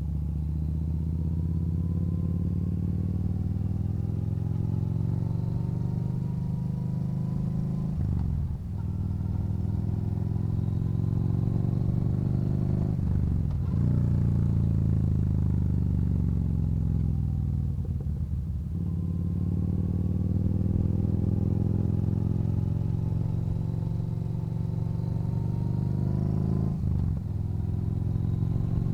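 Yamaha Bolt's air-cooled V-twin running under way, its note slowly rising and falling with the throttle, with short breaks about four times where gears change.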